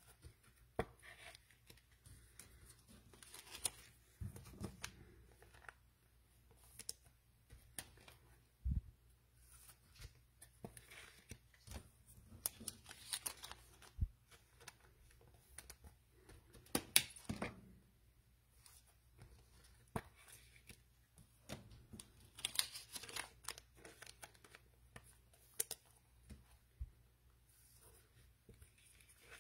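Trading card pack wrappers being torn open and crinkled, with cards handled; faint, scattered rustles and small clicks.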